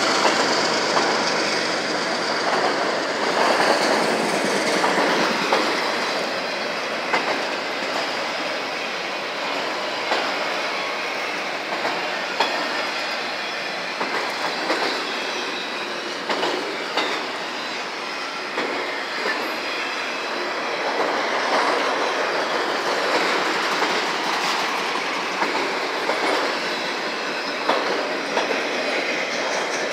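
Freight train of enclosed autorack cars rolling past: a steady rumble of steel wheels on rail, broken by repeated clicks as the wheels cross rail joints.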